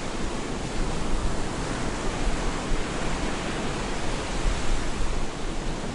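Stormy ocean surf breaking on a beach: a continuous, even wash of wave noise with no separate breakers standing out.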